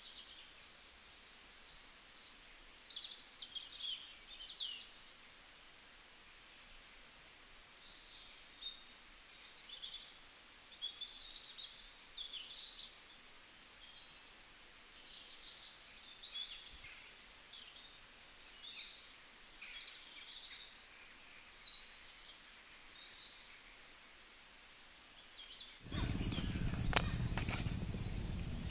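Birds chirping and calling in many short chirps over a faint background. Near the end the sound changes abruptly to a louder, steady buzzing noise with a few clicks.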